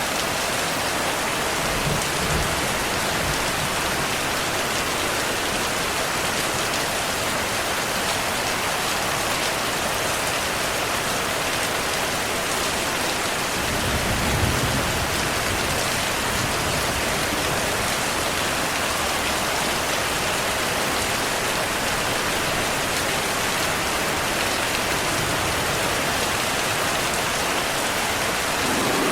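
Steady heavy rain hissing, with low rolls of distant thunder, a brief one a couple of seconds in and a stronger one about halfway through.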